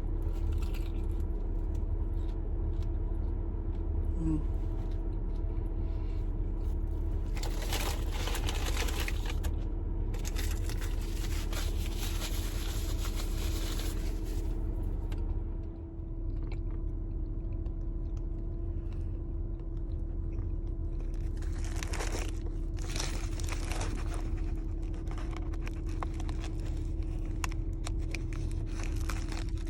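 A person biting and chewing fast-food breakfast, with crunchy stretches about eight seconds in, from about ten to fifteen seconds, and again around twenty-two to twenty-five seconds, over a steady low hum inside a car.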